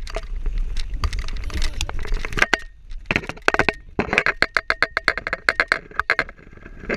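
Bicycle freewheel hub ticking in quick runs of clicks as the bike coasts, pausing briefly near the middle, over a low wind rumble on the microphone.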